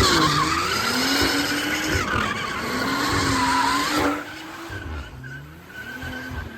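A car spinning its tyres with the engine held at high revs, the pitch wavering up and down while the tyres squeal; it drops away about four seconds in.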